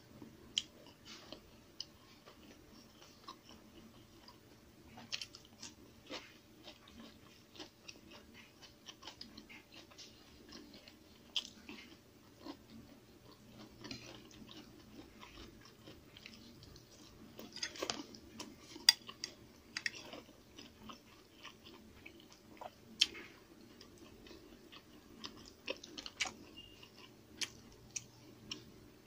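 A person chewing and crunching food, with many short sharp clicks and taps, several louder ones in the second half, from fingers and a spoon against plates.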